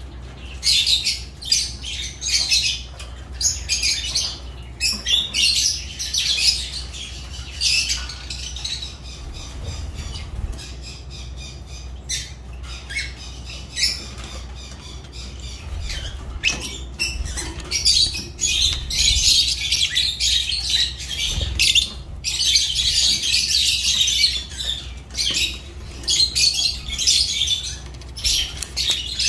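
Lovebirds chattering and squawking in shrill, high-pitched calls, in rapid runs with short breaks.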